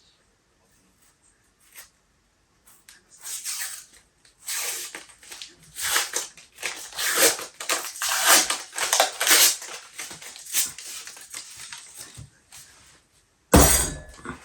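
A tube of refrigerated biscuit dough being opened: its paper wrapper crinkles and tears for several seconds, then near the end the can bursts open with one loud, sudden pop.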